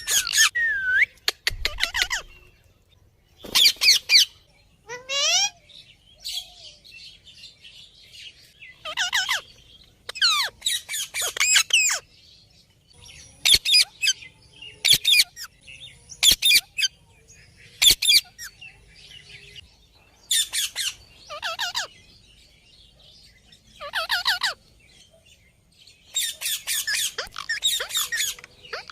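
Parrot squawking in short, high-pitched calls with wavering pitch, repeating every second or two and bunching into rapid runs of calls in places.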